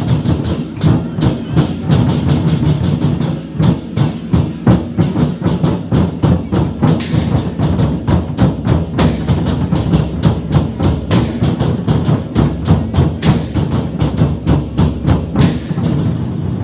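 Lion dance drums beaten fast and continuously in a lively rhythm of sharp, rapid strikes, several a second. The drumming breaks off near the end.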